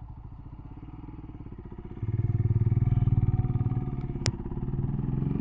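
Motorcycle engine running at low speed, getting louder about two seconds in as the throttle opens, then easing off. There is a single sharp click a little after four seconds.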